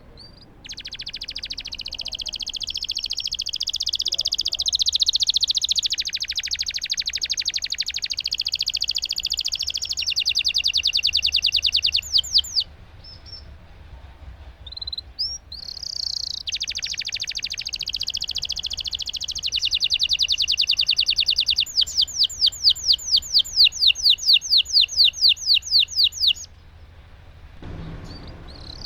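Domestic canary singing long rolling trills. There are two extended phrases of rapid trilled notes, each closing with a run of slower, separate, louder notes at about four or five a second, and a short pause of scattered chirps between them.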